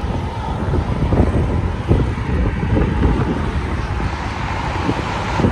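Wind buffeting the microphone in loud, gusty rumbles that start abruptly.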